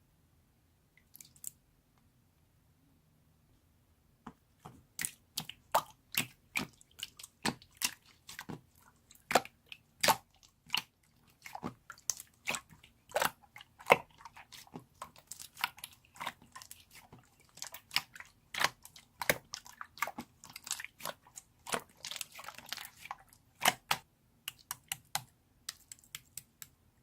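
Slime being squeezed and pressed by hand, making a quick run of sticky clicks and small air-bubble pops that starts about four seconds in.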